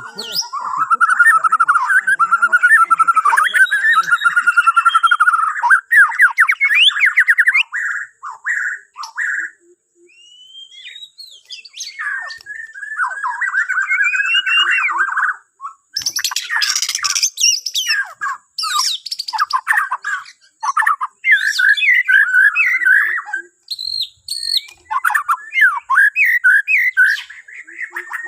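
Borneo white-rumped shama singing a long, varied song of rapid trills, whistles and harsh chattering notes, with a short break about ten seconds in.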